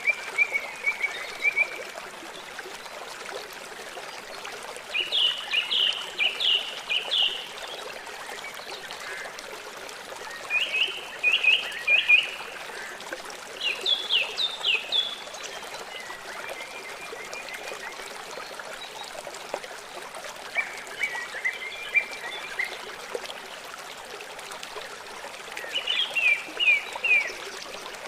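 Small songbird singing short phrases of quick, repeated downward-sliding notes, a phrase every few seconds, over a steady trickle of water.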